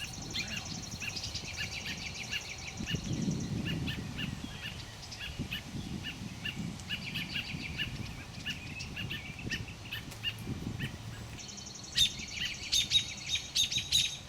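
Small birds calling at a black snake raiding their nest: a fast high trill, then a steady series of short chirps about two a second, with the trill and louder sharp chirps coming back near the end.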